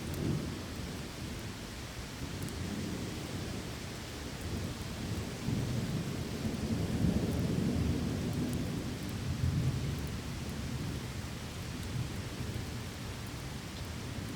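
Steady rain with low rolling thunder that swells and peaks around the middle, then eases back to a rumble under the rain.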